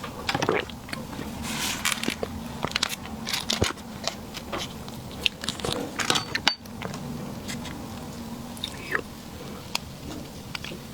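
Close-miked eating of dessert: bites and chewing with many small wet clicks and smacks. Busiest over the first two-thirds, then sparser and quieter after a brief dropout.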